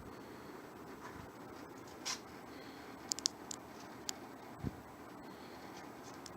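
JCPenney 9700 box fan cold-started in freezing weather, giving a steady low whoosh as it runs. A few light clicks sound in the middle, and a soft thump comes shortly after.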